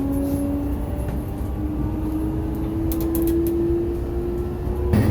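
Train running with a steady low rumble and a motor whine that rises slowly in pitch as it picks up speed.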